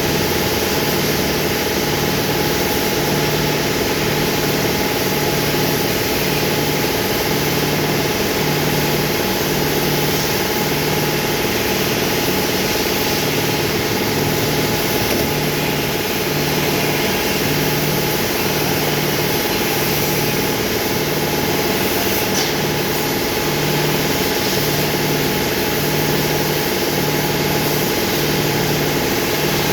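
Engine idling steadily, with a low hum that swells and drops about every one and a half seconds.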